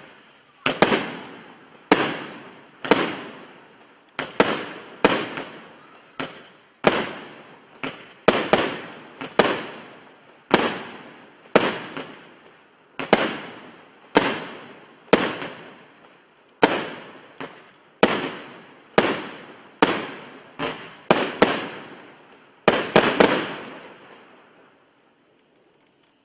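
A 25-shot, 30 mm single-row fan fireworks battery firing its low-noise brocade crown pots with silver glitter and red tips. About two dozen sharp shots come roughly one a second, each trailing off over the following second. A quick run of shots near the end closes the sequence, then the firing stops.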